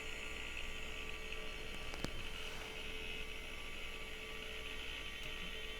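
Steady electrical hum and fan hiss from a running old PC, with one faint click about two seconds in.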